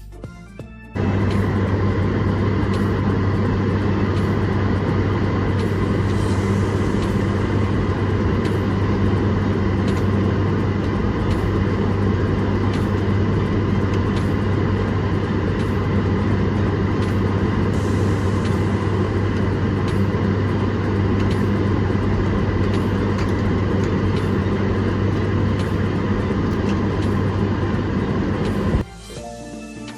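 Steady vehicle drone with a strong low hum and a few steady higher tones; it starts abruptly about a second in and cuts off sharply near the end.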